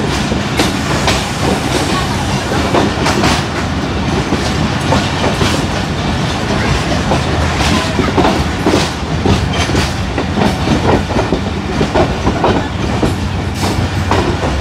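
Passenger train running along the track, wheels clattering over the rail joints under a steady loud rumble.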